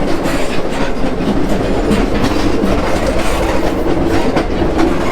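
Passenger train running, heard from aboard: a steady loud rumble and clatter of steel wheels on the rails, with frequent irregular clicks over the rail joints.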